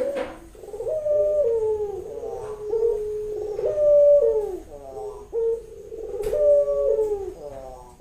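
Barbary dove cooing in a steady run of coos, each note stepping up in pitch and then gliding back down. It is the call a female dove in breeding condition makes to summon a male.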